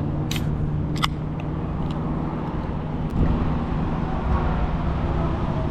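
Vehicle engine idling steadily, with a couple of sharp clicks about a third of a second and a second in.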